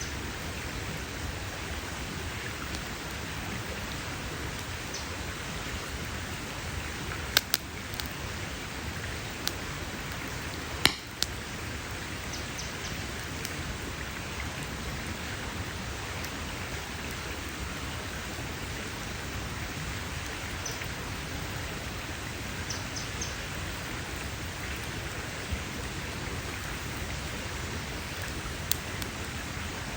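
Campfire burning with a steady hiss and a few sharp pops of crackling wood, the loudest a little before the halfway point.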